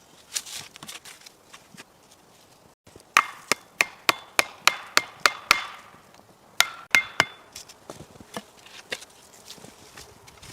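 Wood being chopped: a run of about nine sharp strikes at roughly three a second, then a pause and three more, each with a faint ringing.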